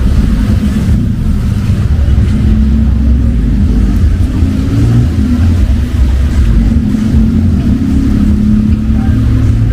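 Steady low rumble of motor vehicle engines in city street traffic, with a few low pitched tones shifting over it.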